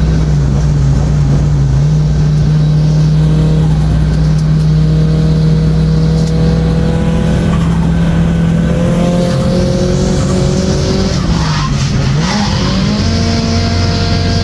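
Nissan Silvia S14's turbocharged SR20DET four-cylinder held at high revs while drifting, its pitch dipping briefly and climbing again a couple of times, with tyres squealing under it.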